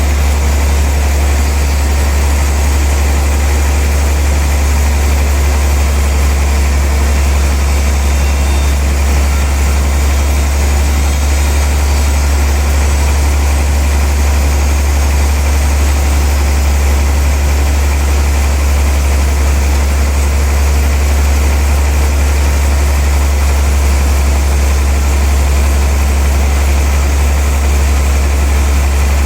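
Sawmill machinery running steadily: a strong low drone under a constant hiss, with no change throughout.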